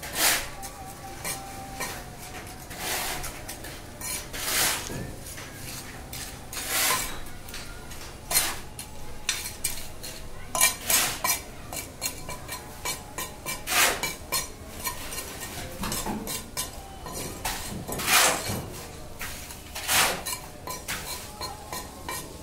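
Hand tools scraping and clinking against hard building material, in irregular strokes a second or two apart.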